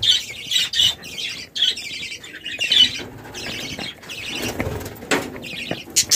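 A flock of budgerigars chirping and chattering continuously, in quick repeated high bursts, with a few sharp clicks near the end.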